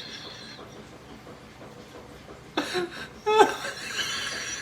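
A person chuckling, two short bursts about a second apart past the middle, over quiet background.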